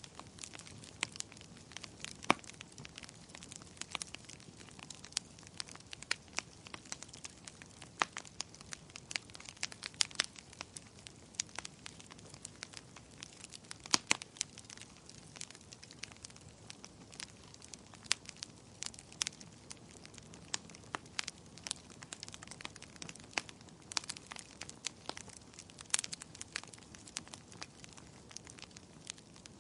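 Wood fire crackling: irregular sharp pops and snaps over a soft, steady hiss, with a few louder pops scattered through.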